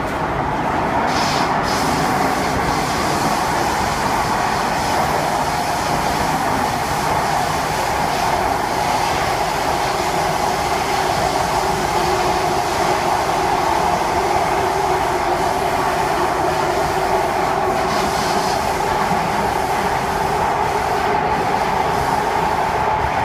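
SMRT C151A metro train running steadily at speed between stations, heard from inside the car: a loud, even rumble of wheels on rail with a sustained high tone over it.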